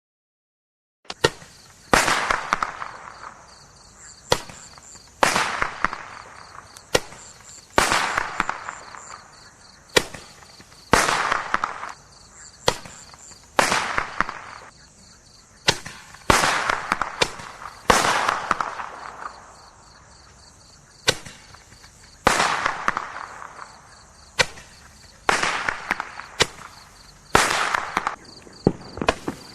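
Roman candles (Winda Heavy Splash four-pack) firing: a long series of sharp pops about one to one and a half seconds apart, starting about a second in, each trailing off over a second or so.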